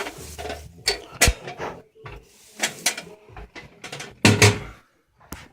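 Irregular knocks, clicks and clunks of hard objects being handled and set down, with a sharp click about a second in and a louder cluster of knocks near the end.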